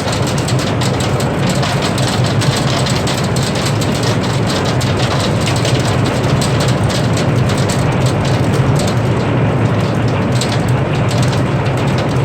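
Hail pelting down hard: a dense, steady clatter of many small stone impacts over a constant rushing noise, with a steady low hum underneath.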